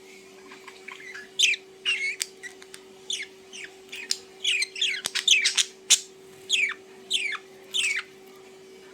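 A bird giving a series of about a dozen short, harsh squawks, each sliding steeply down in pitch, over a steady low hum.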